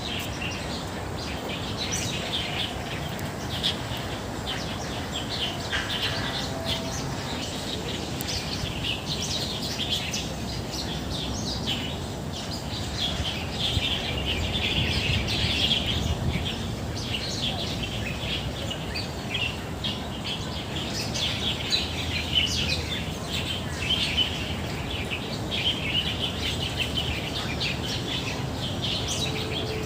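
Many small birds chirping and twittering together, a dense chorus of short high calls overlapping continuously, over a steady low background rumble.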